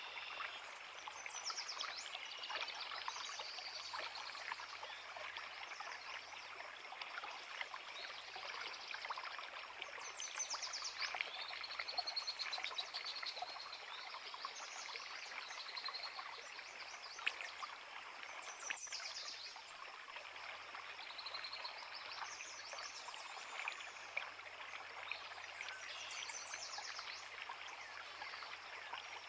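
Creek water running steadily over rocks, with several birds singing throughout in short chirps and trills, and a couple of sharp clicks in the second half.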